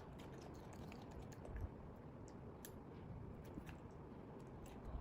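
A pet monkey eating: faint, scattered small clicks and taps of chewing and handling food, with a soft low thump about a second and a half in.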